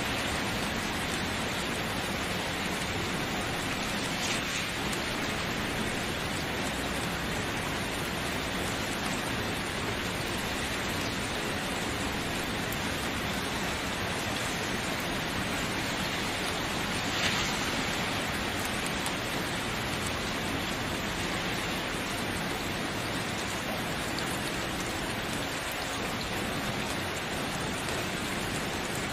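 Steady rain falling, an even hiss, with a slightly louder drop or splash about four seconds in and again a little past halfway.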